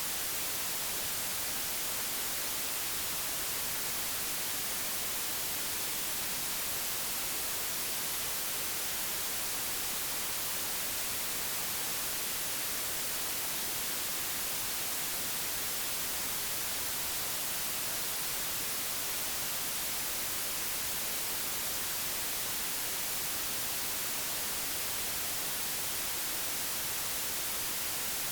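Steady, unchanging digitally generated white noise: an even hiss with no events, strongest in the high frequencies.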